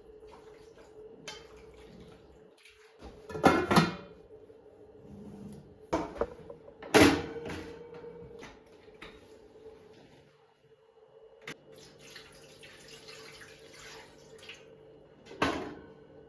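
Kitchen work: a few sharp clatters and knocks, loudest a double knock about three and a half seconds in and another about seven seconds in, over a faint steady hum, with a stretch of soft rushing noise past the middle.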